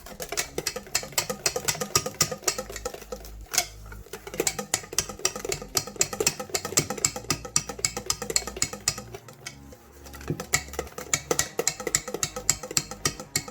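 A utensil clicking and tapping rapidly against a mixing bowl as chocolate batter is stirred by hand, several irregular taps a second.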